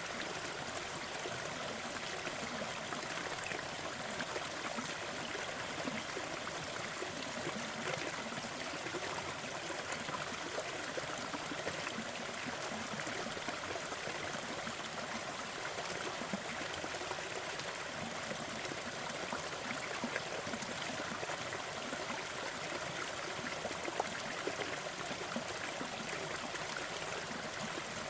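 Waterfall: a steady rush of falling and splashing water with small scattered splashes.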